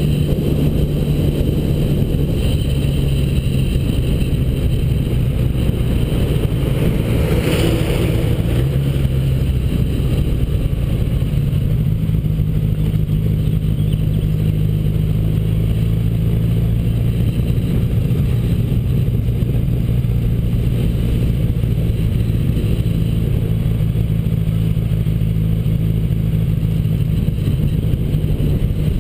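1979 Honda Goldwing GL1000's flat-four engine running on the move, its pitch stepping up and down every few seconds with throttle and gear changes, over a steady rumble of wind on the microphone.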